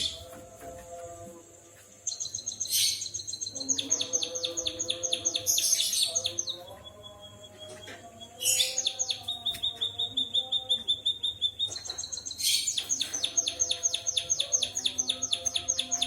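Songbird singing a canary-style song: fast trills of rapid repeated high notes broken by brief held whistles, starting about two seconds in and carrying on in several phrases.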